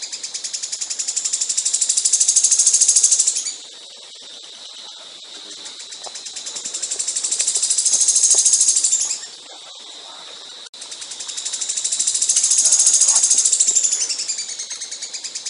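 Caged songbird singing in rapid-fire high trills, the 'tembakan' bursts prized in Indonesian song contests: three long phrases of very fast repeated notes, each swelling louder and then cutting off suddenly, with short pauses between them.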